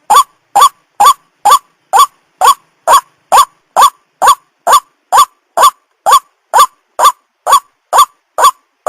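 White-breasted waterhen (ruak-ruak) calling: a loud, short call that rises in pitch, repeated steadily about twice a second, every call alike.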